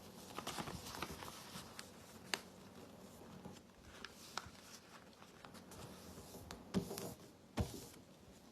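Sheet of printer paper being folded and creased by hand as a paper airplane wing is folded down: soft rustling with scattered small ticks, and a couple of louder taps near the end.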